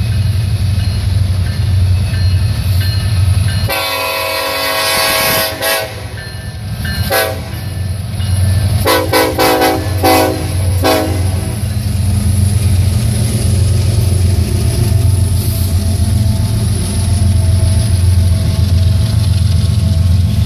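Norfolk Southern diesel freight locomotive sounding its horn: one long blast about four seconds in, then several shorter blasts up to about eleven seconds, over the steady heavy rumble of the passing train. After that the coal hopper cars roll past with a continuous rumble.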